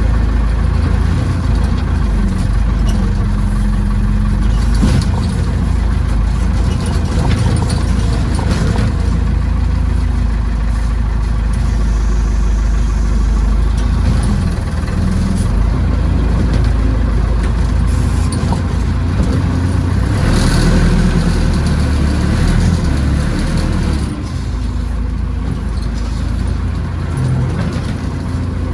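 Massey Ferguson tractor backhoe's engine running steadily at work, with a few brief knocks along the way.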